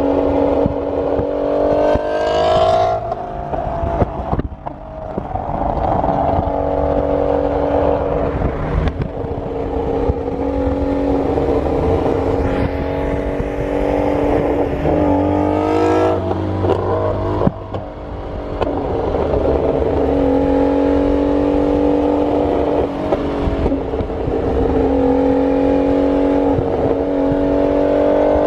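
Supercar engine running at high revs, its pitch climbing sharply three times and dropping after each climb, with a few sharp exhaust cracks in between.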